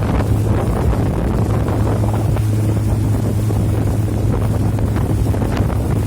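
Boat engine running with a steady low drone, under heavy wind buffeting the microphone.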